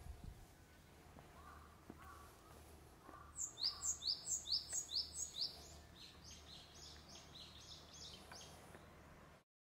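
A small songbird singing a quick run of high, downward-sweeping notes, about four a second, then fainter notes of the same kind over a low outdoor background. The sound cuts off suddenly near the end.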